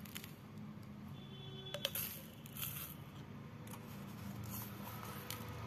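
Light scraping, rustling and a few sharp clicks of a scoop and containers being handled as citric acid powder is scooped into the water, with a cluster of clicks about two seconds in.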